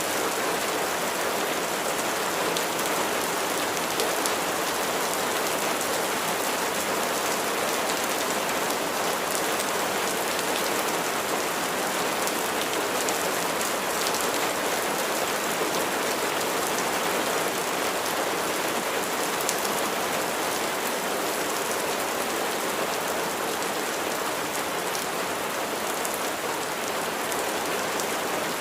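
Steady rain falling and pattering on a surface, an even hiss with many small drop ticks and no thunder.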